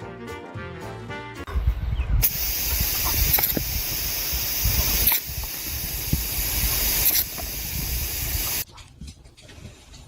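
Loud steady hissing with a low rumble underneath, cutting off suddenly about a second and a half before the end. Brief music plays before it.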